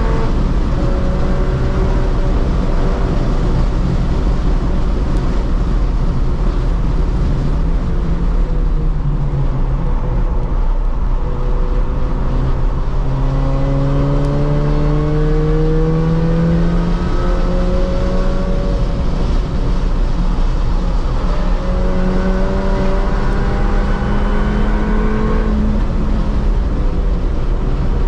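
Cabin sound of an R53 Mini Cooper S's supercharged 1.6-litre four-cylinder engine driven hard on track. The revs drop over the first several seconds, climb steadily from about ten seconds in, and drop again near the end, over constant loud road and wind noise.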